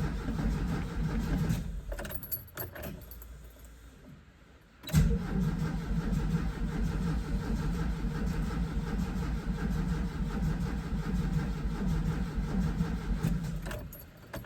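VW Vanagon engine running, cutting out a couple of seconds in, then a few clicks. It fires again with a sudden start about five seconds in and runs steadily until it stops near the end. The newly fitted Bosch fuel pump is wired with its polarity reversed.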